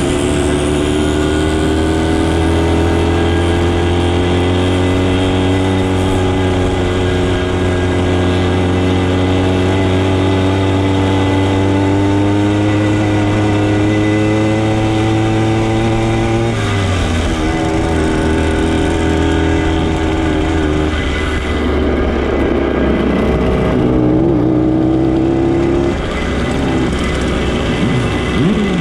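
Motorcycle engine running under way, its pitch climbing slowly for about sixteen seconds, then dropping suddenly, then rising and falling in the last several seconds.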